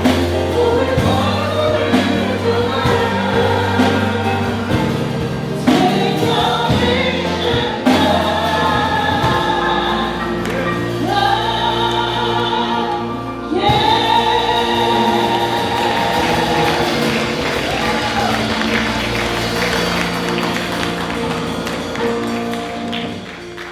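Choir singing a gospel hymn over instrumental accompaniment, with long held notes; the music fades down near the end.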